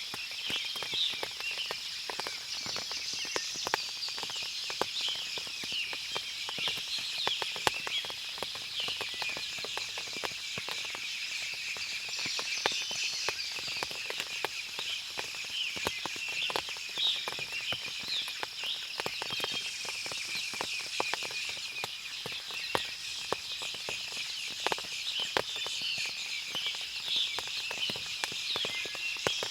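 Forest after rain: many birds chirping and calling over one another, with frequent small ticks and taps of water dripping from the trees, over a steady high hum.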